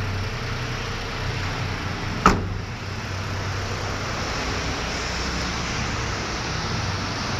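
1993 Daihatsu Hijet mini truck's engine idling steadily, with one sharp metallic clunk a little over two seconds in.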